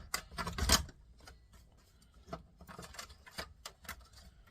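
Clicks, taps and rattles of small plastic and metal parts being handled as wiring is pulled out of a stereo component's chassis during a teardown. A busy cluster in the first second, with the loudest knock just under a second in, then scattered single clicks.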